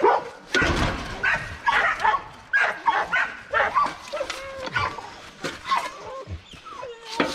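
Dogs barking, about twice a second, with a few drawn-out whining notes in the middle and a low thud about half a second in.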